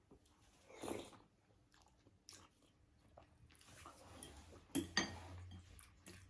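Close-up eating sounds: chewing and biting, soft and faint, with louder mouth noises about a second in and twice just before five seconds.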